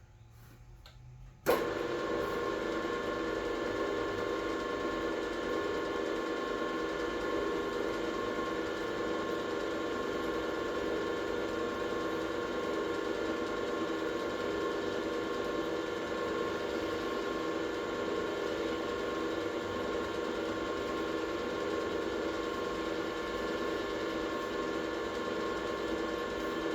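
Air compressor switched on for a test run, starting suddenly about a second and a half in and then running steadily with an even hum of motor and pump.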